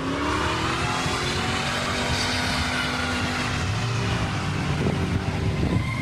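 Car engine running hard at high revs, its pitch rising briefly at the start and then holding steady.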